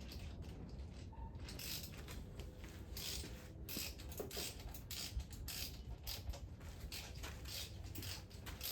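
Ratchet wrench clicking in a run of short, uneven strokes, starting about a second and a half in, as a starter mounting bolt is backed out.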